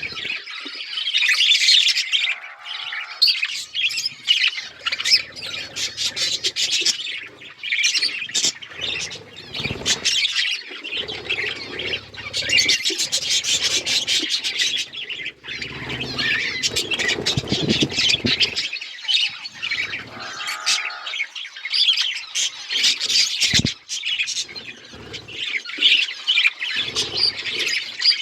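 A group of budgerigars chattering and squawking, a dense, continuous high-pitched warble of chirps and squawks.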